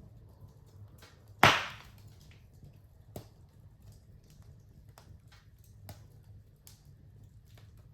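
Wood fire crackling in a fireplace: scattered small crackles and one loud, sharp pop about a second and a half in.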